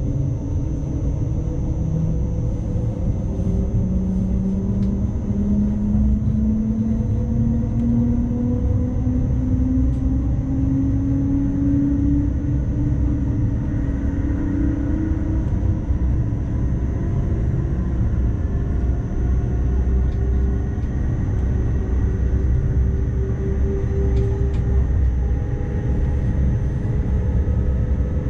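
NS ICMm electric train heard from the driver's cab: a steady rumble of wheels on the track, with a traction-motor whine rising steadily in pitch over the first half as the train gathers speed, then holding steady tones.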